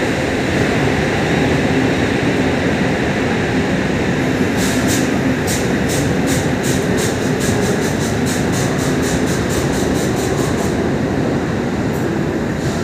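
Electric locomotive and its passenger coaches rolling along the platform track with a steady rumble and hum. From about five seconds in, the wheels click over the rail joints in a quickening rhythm as the train gathers speed.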